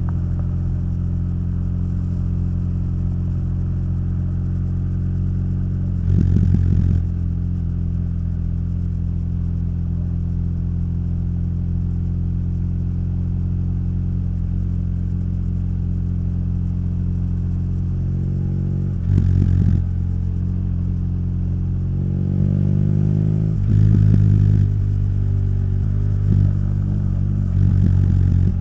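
BMW R nineT's air/oil-cooled boxer twin running steadily through its Akrapovič exhaust while riding, with two brief louder surges. Past three-quarters of the way in, the engine note rises in pitch as the bike accelerates and stays louder.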